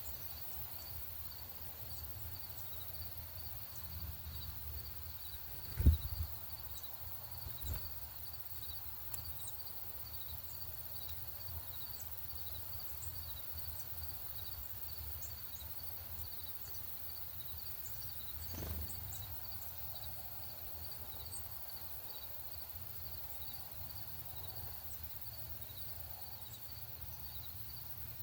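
Outdoor ambience dominated by a steady, even high-pitched insect chirping of about three pulses a second, over a low rumble. A sharp thump about six seconds in is the loudest sound, followed by a smaller one a couple of seconds later.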